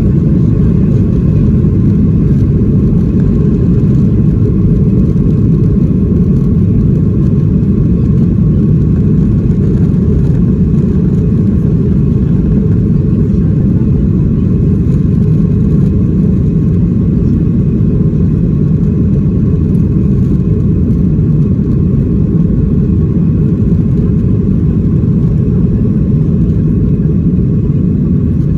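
Steady low rumble inside the cabin of a Boeing 737-800: the drone of its CFM56-7B jet engines and the airflow, heard from a window seat, with faint steady tones above it.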